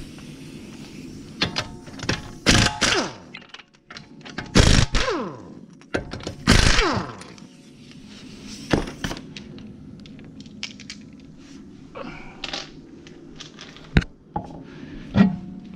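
A series of heavy thunks and impacts. The three loudest, spaced about two seconds apart, are each followed by a ring that falls in pitch, and lighter knocks and clicks come in between.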